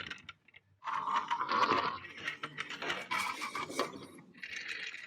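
Mechanical clicking and rattling in irregular bursts, with short pauses between them.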